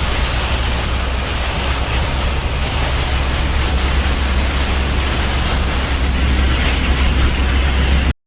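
Steady rushing noise of storm wind and rain heard from inside a car, over a deep low rumble from the vehicle. It cuts off abruptly near the end.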